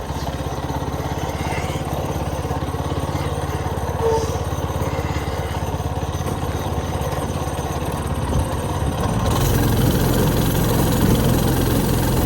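Small 4 hp Kawasaki single-cylinder engine on a two-seater go-kart running steadily with an even pulse, getting louder about nine seconds in.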